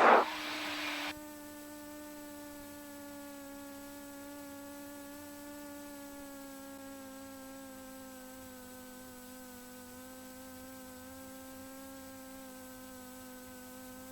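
Steady whine with several overtones in a Cessna 172's cockpit intercom audio, its pitch settling slowly lower as the engine idles down after landing. A short burst of noise opens it.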